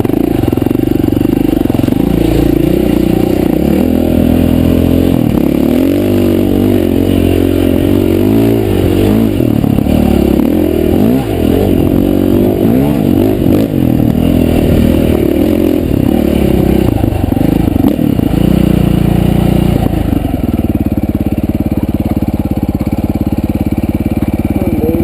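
Dirt bike engine running loud, its revs rising and falling repeatedly, then settling to a steadier pitch near the end.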